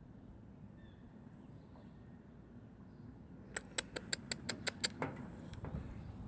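Squirrel giving a quick run of about eight sharp chips, about six a second, about three and a half seconds in, followed by a few softer ticks.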